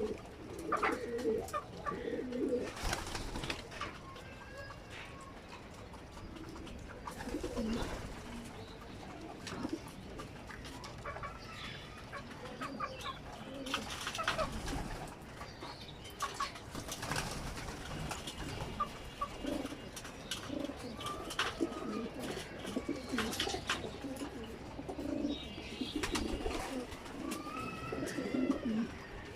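Racing pigeons cooing over and over, with scattered sharp clicks and taps among them.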